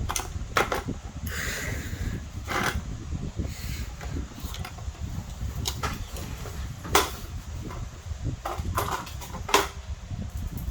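Scattered plastic clicks, knocks and scraping as car trim panels and their retaining clips are worked loose by hand, the two sharpest clicks about seven and nine and a half seconds in, over a steady low rumble.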